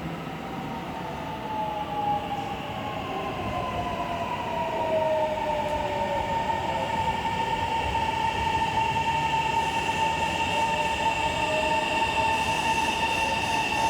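Kintetsu electric commuter train running into the station. It gives a falling whine, then steady high-pitched squealing tones over a rolling rumble that grows louder as it comes near.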